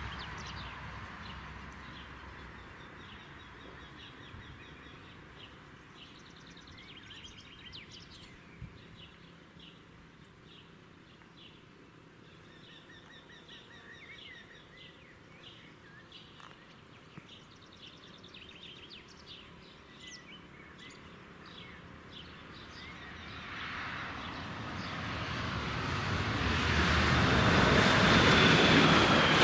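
A rumble fades away in the first seconds, leaving birds chirping. From about three-quarters of the way through, an approaching train's noise rises steadily and is loud by the end.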